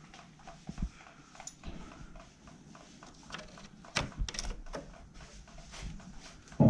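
Scattered knocks, clicks and clunks at irregular intervals. The loudest come about four seconds in and at the very end.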